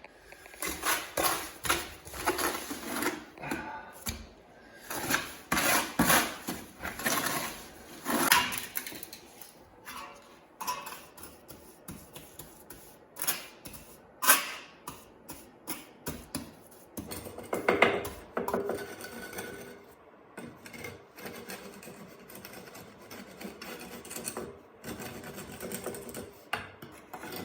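Irregular taps, scrapes and clatter of hand tools being worked, in uneven bursts with short pauses between.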